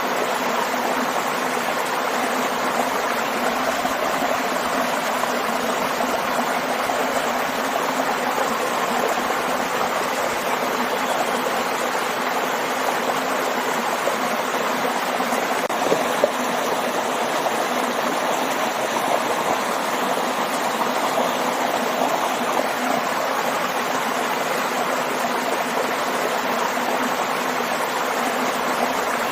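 Steady rush of a waterfall and stream, water splashing and flowing continuously.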